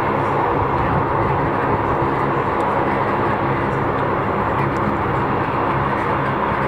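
Boeing 737-800 airliner's jet engines running, a loud, steady rush with a low hum underneath.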